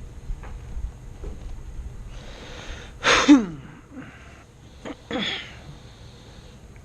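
A person sneezing: a noisy intake of breath, then one loud sneeze falling in pitch, followed about two seconds later by a second, weaker sneeze-like burst.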